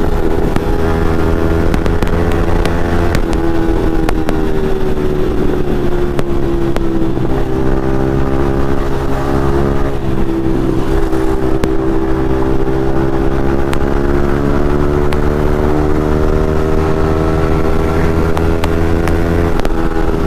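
Yamaha MT-15's single-cylinder engine through an aftermarket Akrapovic exhaust, running steadily under way at cruising speed. The revs dip briefly twice in the middle, then climb slowly towards the end.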